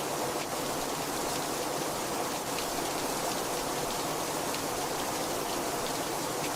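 Heavy rain falling steadily, a dense even hiss with faint scattered drop patters.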